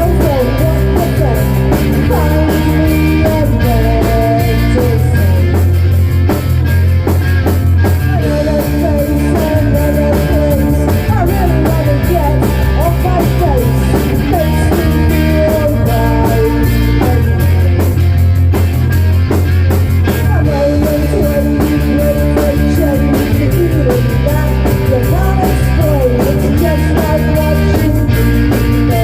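Rock song with singing over guitar and drums, loud and continuous.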